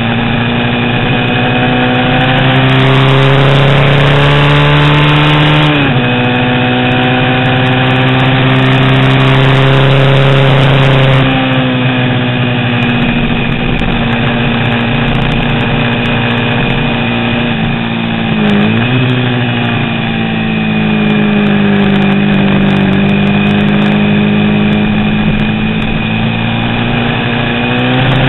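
Vintage 350 cc road-racing motorcycle engine running hard. Its pitch climbs, drops sharply at a gear change about six seconds in, eases off after about eleven seconds, dips briefly around eighteen seconds and then climbs again.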